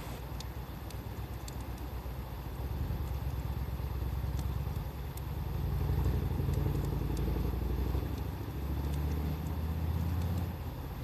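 Low rumble of a motor vehicle engine running nearby, swelling and easing, with a few faint, sparse crackles from a wood fire.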